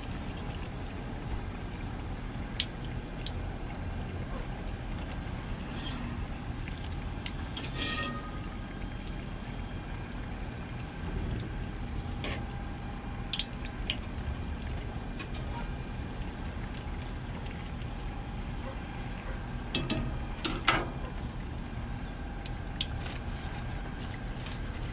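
Hot oil frying in a Blackstone griddle deep fryer: a steady low rumble under the bubbling, with scattered sharp pops and clicks, a few of them close together about twenty seconds in.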